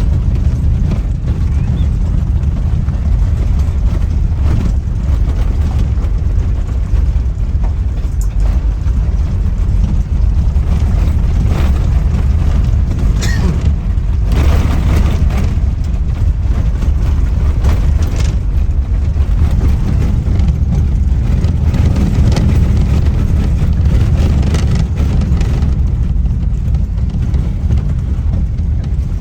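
A vehicle driving: a steady, loud low rumble with scattered knocks and rattles.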